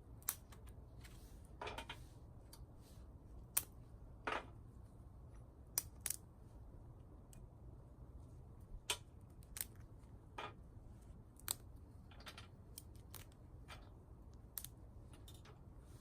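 Small twigs crackling and snapping: about a dozen sharp, irregularly spaced cracks, a few of them longer crackles, over a low steady rumble.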